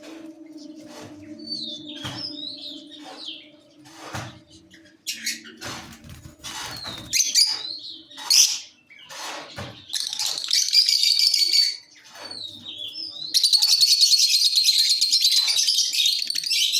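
Fischer's lovebirds calling: scattered sharp chirps at first, then rapid high-pitched chattering that turns loud and continuous for the last few seconds.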